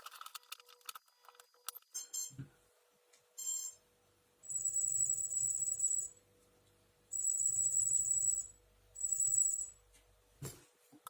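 Small brushless RC motor driven by its speed controller, jerking and stuttering with a high-pitched whine in three runs of a second or two each, after two short buzzy bursts. It will not spin up to speed: the motor's fault, which the owner says resembles a wire with bad contact to the controller, though his tester finds the windings sound.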